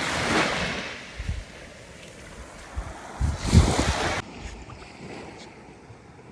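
Waves breaking on a beach: two swells of surf noise, one just after the start and a louder one about three seconds in, with wind rumbling on the microphone.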